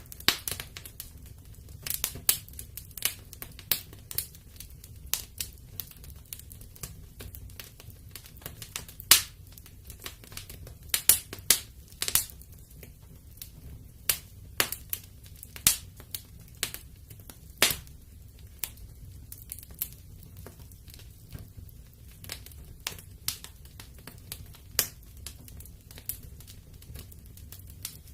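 Wood fire crackling in a fireplace: irregular sharp pops and snaps, a few much louder than the rest around the middle, over a low steady rumble.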